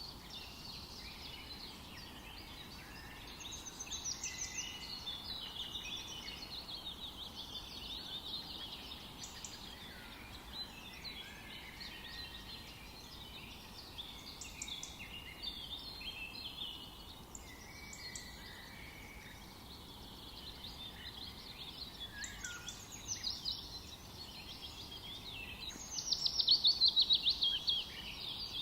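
Several songbirds singing at once, with overlapping chirps, whistles and trills, over a faint steady background hiss. A loud, rapid trill stands out near the end.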